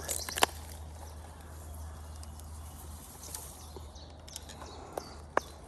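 Quiet lakeside outdoor background with a few sharp clicks and knocks, one loud knock about half a second in and two more near the end. A bird chirps briefly at the very start.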